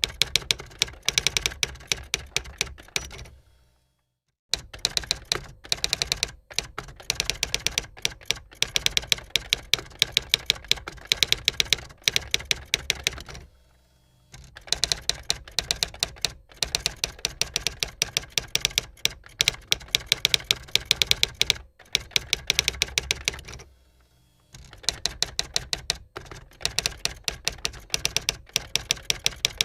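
Typewriter being typed on: quick runs of sharp key strikes, broken three times by short pauses.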